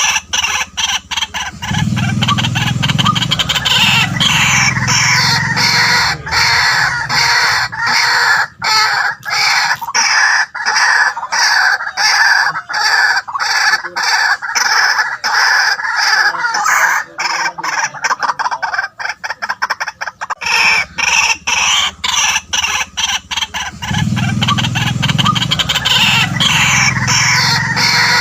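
White-breasted waterhen calling, a loud, continuous run of rapidly repeated harsh notes, with a deeper undertone about two seconds in and again near the end.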